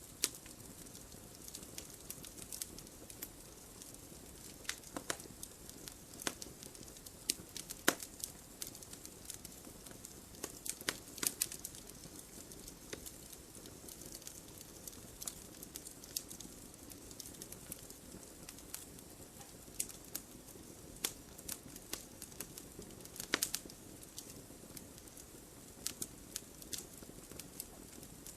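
Campfire crackling: irregular sharp pops and snaps of burning wood over a soft, steady hiss of the flames.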